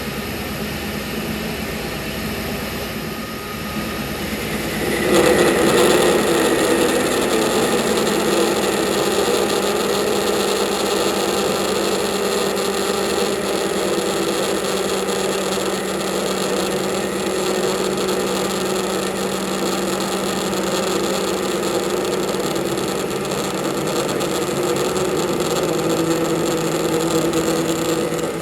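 A workshop machine running with a steady motor hum, getting louder about five seconds in as it comes under load.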